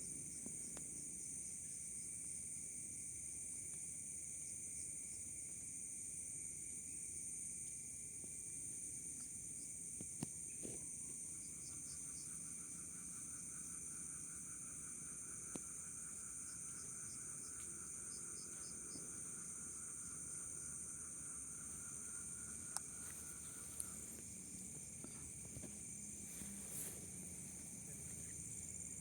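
Forest insect chorus: a steady high shrill over a lower steady tone. Partway through, a fast pulsing trill joins for about twelve seconds, then stops, with a few faint clicks.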